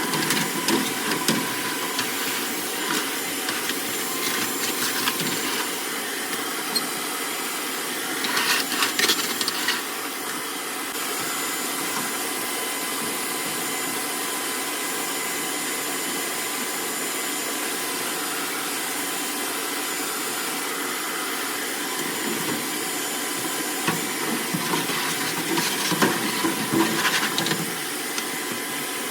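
A machine running steadily with a hiss and a thin whine, with two stretches of scraping and rattling over it, one about a third of the way in and one near the end.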